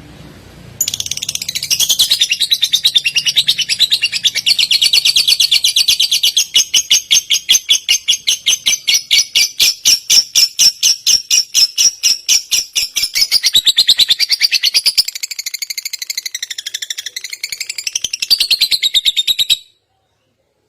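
A songbird giving a long, rapid trill of quickly repeated high notes, played from a tutor recording for training white-rumped shamas. It starts about a second in, keeps a fast even pace, wavers in pitch near the end and cuts off suddenly.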